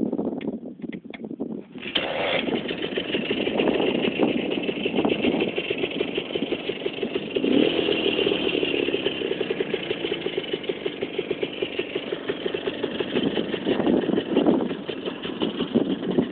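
Minsk motorcycle's two-stroke single-cylinder engine catching about two seconds in, then running with a quick pulsing beat and a brief rev about halfway through.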